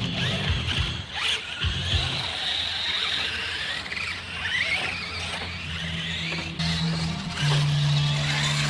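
Several R/C monster trucks' motors whining, with overlapping pitches that rise and fall as the trucks speed up and slow down. A steady low hum runs underneath and grows louder near the end.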